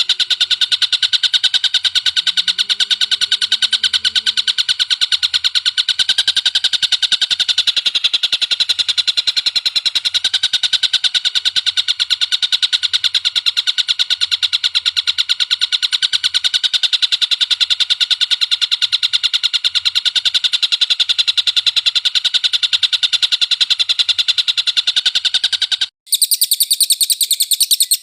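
Cage songbird recorded for song training: one bird's very rapid, unbroken chattering trill, loud and steady. It cuts off abruptly near the end and a higher, thinner bird call takes over.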